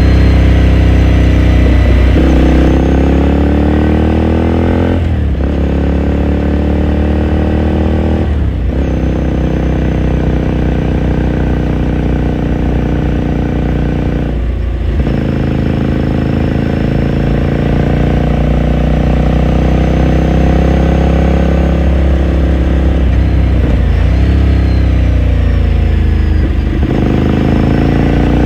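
Ducati Scrambler Sixty2's 399 cc air-cooled V-twin, heard onboard while riding, its exhaust note rising through the gears with short drops at upshifts about five, eight and fifteen seconds in. Near the end the engine note falls away as the bike slows, then climbs again.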